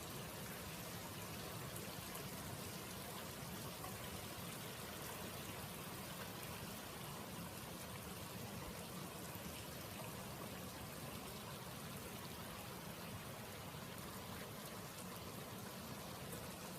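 Faint, steady rain falling during a thunderstorm, an even hiss with no distinct drops or claps.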